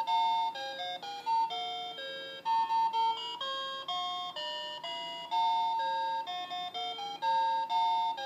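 Electronic tune from a children's play-a-sound book's sound chip: a simple melody of single beeping notes, about two to four a second.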